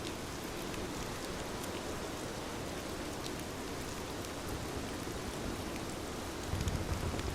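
Steady rain falling on a window, with scattered sharp drop taps. About six and a half seconds in, a low rumble swells up under the rain.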